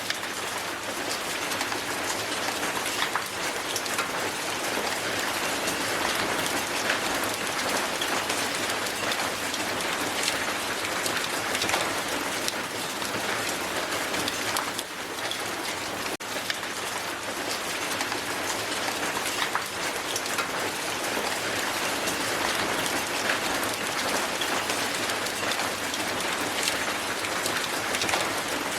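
Strong hail falling on the ground: a dense, steady patter of countless small ice impacts, with a brief dip about halfway through.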